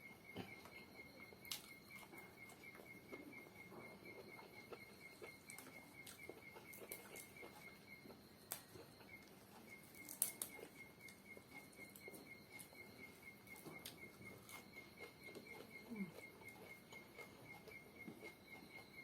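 A cricket trilling steadily and fast at a high pitch, with a short break about halfway. A few scattered sharp clicks sound over it, the loudest about ten seconds in.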